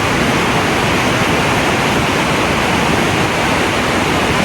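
Steady, loud rushing of fast-flowing water, an unbroken noise with no separate events.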